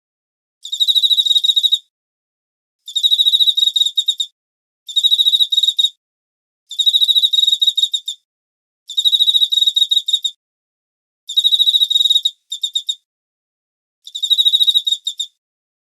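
A cricket chirping in a steady rhythm: about seven high, pulsing trills, each a second or so long, all at the same pitch, with silent gaps of roughly a second between them.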